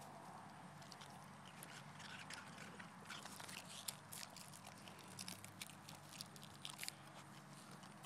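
A dog chewing and crunching on a frozen Otter Pop ice pop: faint, irregular crunches and clicks of its teeth on the ice.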